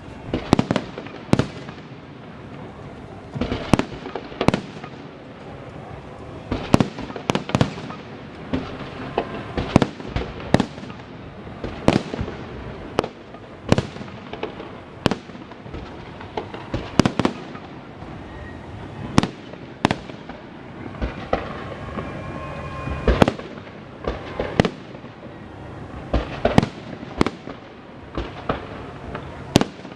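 Fireworks salute: a run of sharp bangs from bursting aerial shells, irregular, often several a second, over a steady background rumble.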